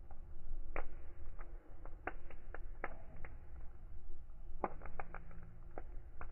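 Fireplace fire crackling: irregular sharp pops and snaps, some in quick clusters, over a steady low rumble of the flames.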